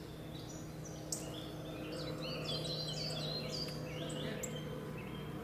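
Small birds chirping: a run of short, quick high chirps, some sliding down in pitch, thickest in the middle, over a faint steady low hum of outdoor background.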